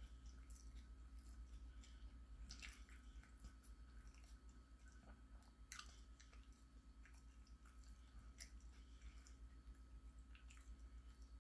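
Faint chewing of a mouthful of turkey and cheese sandwich, with soft wet mouth clicks scattered through it, over a steady low hum.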